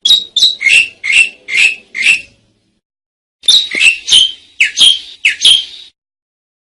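Asian pied starling (jalak suren) calling: two runs of about six short, loud, scratchy notes each, separated by a pause of about a second.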